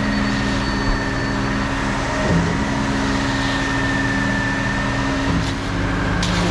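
Heavy diesel engine of the concrete pumping gear running steadily at constant speed, with a steady high whine over it.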